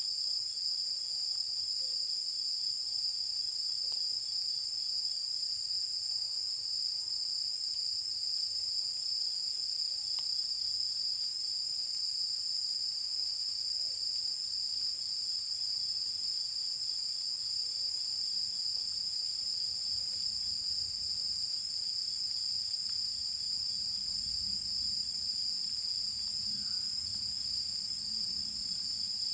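A dense chorus of night insects singing: a steady, unbroken, high-pitched shrilling with no pauses.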